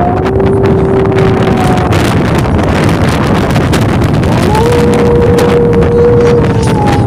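Strong wind buffeting the microphone with a heavy rumble. A steady whistling tone rides over it for the first two seconds, and a slightly higher one sounds from about four and a half seconds in for about two seconds.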